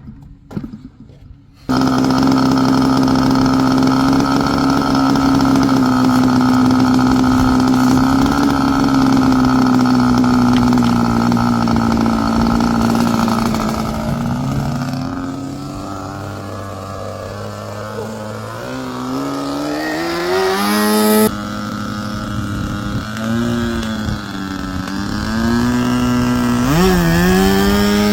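Small high-revving two-stroke model aircraft engine running. It starts suddenly about two seconds in, holds a steady high pitch, then its pitch rises and falls several times as the throttle is opened and closed.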